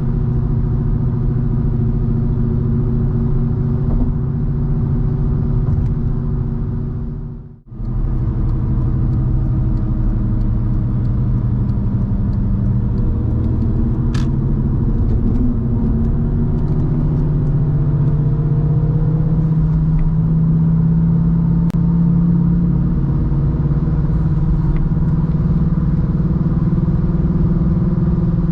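BMW 316i E46's four-cylinder petrol engine running on the move, a steady drone with road noise. The sound drops out briefly about seven seconds in, and the engine pitch rises gently past the middle as the car picks up speed.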